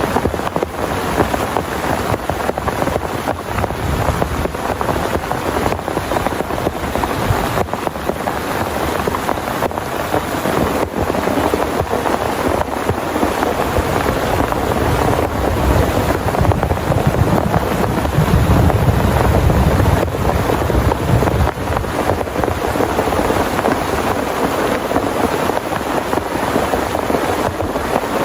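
Heavy rain pouring steadily, a dense, loud hiss with no let-up. A low rumble swells for several seconds around the middle and then fades.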